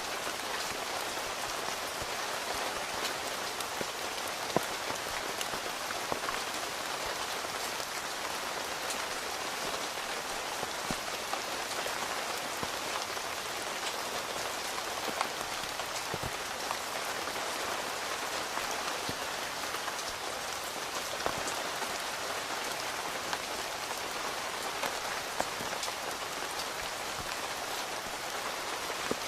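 Steady rain falling on tent fabric, heard from inside the tent: an even hiss of rain with many separate drop ticks and a few louder single drops now and then.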